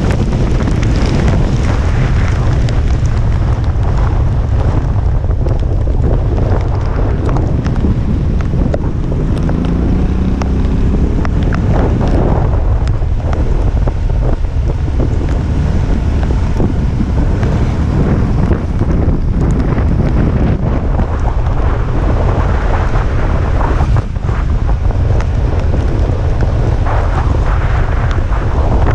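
Typhoon wind buffeting the microphone in a heavy, constant low rumble, with rushing wind and rain behind it. A brief rising whine sounds about ten seconds in.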